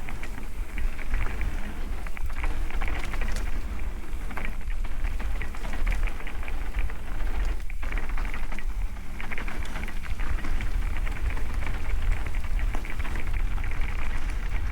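Mountain bike rolling fast downhill: tyres crackling over dirt and loose stones, with the bike rattling, under heavy wind rumble on the microphone.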